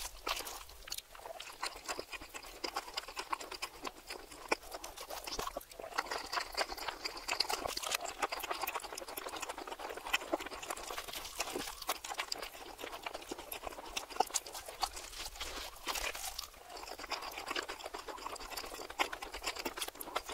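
Close-miked chewing and crunching of a cheesy Philly cheesesteak on a toasted roll, played in reverse: a dense, unbroken run of small crackles and mouth clicks.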